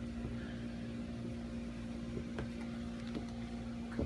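A steady mechanical hum, with a few faint taps in the last second or so.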